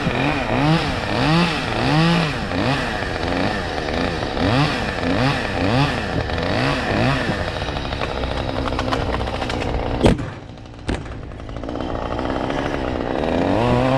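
Chainsaw engine revving up and down repeatedly, about twice a second, then running more steadily. A sharp crack about ten seconds in, after which the saw sound drops, then builds and revs again near the end.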